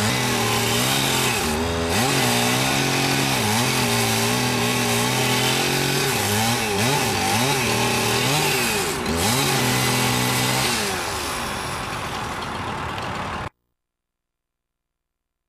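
Engine running steadily at high speed, its pitch dipping briefly and recovering several times. It fades to a hiss about eleven seconds in, and the sound then cuts off abruptly.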